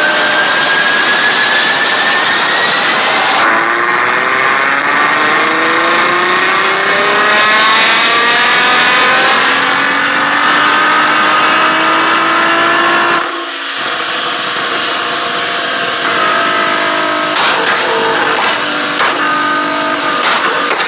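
Nissan GT-R R35's twin-turbo V6 accelerating hard through a loud aftermarket exhaust, its pitch climbing steadily in a long pull. After a brief lift-off about thirteen seconds in, the exhaust pops and crackles in quick runs near the end.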